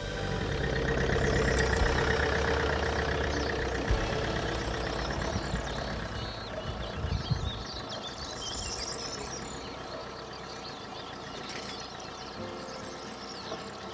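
SUV engine pulling away and driving off along a grassy track, loudest about two seconds in and fading as the car moves away. Birds sing over it through the second half.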